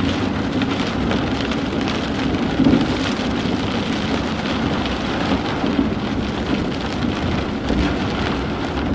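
Steady road and engine noise heard inside a moving car, an even rumble with no distinct events.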